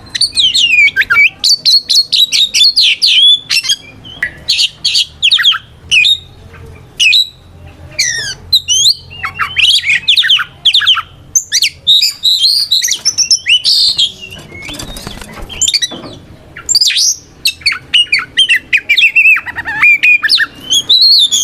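Oriental magpie-robin (kacer) singing loudly in rapid, varied whistled phrases of sweeping notes, with a harsh, rasping stretch about two-thirds of the way through. This is its full 'ngeplong' challenge song, calling out to rival magpie-robins.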